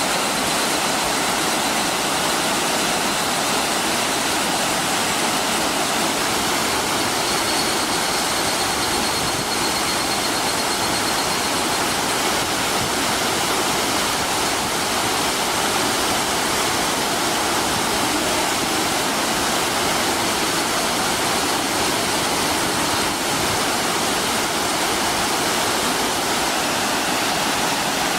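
Ryumon Falls, a waterfall, pouring steadily: a dense, even rush of falling water that does not let up.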